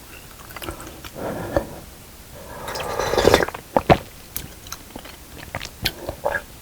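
Close-miked chewing and wet mouth sounds of eating spicy fish cake and rice cake soup, with a longer swell of noise about halfway through and a few sharp clicks.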